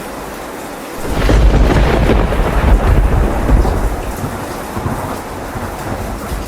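Steady heavy rain, with a close thunderclap breaking in about a second in: a loud, deep rumble that holds for about three seconds and then fades back under the rain.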